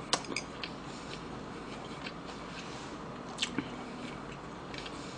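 A person chewing a mouthful of food with the mouth closed, with a few short wet smacks and clicks: a couple near the start and a pair about three and a half seconds in.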